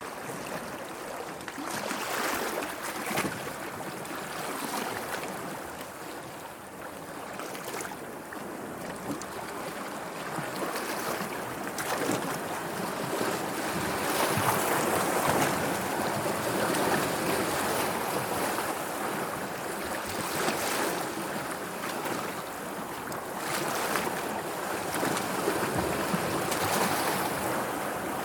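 Sea waves washing in, a steady rushing noise that swells and eases slowly.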